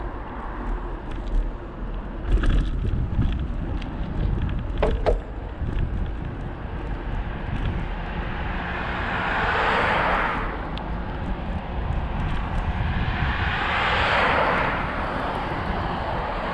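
Wind buffeting the microphone of a moving cyclist, a steady low rumble, with a few sharp clicks about two to five seconds in. Twice, about four seconds apart, a rushing sound of passing traffic swells up and fades away.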